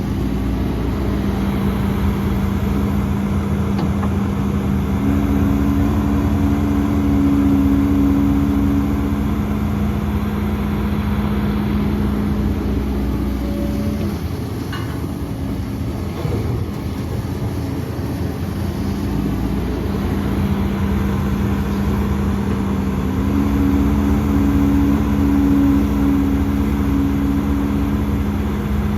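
Heavy diesel earthmoving machinery running steadily. The engine note rises twice under load, about a fifth of the way in and again near the end, and eases briefly around the middle.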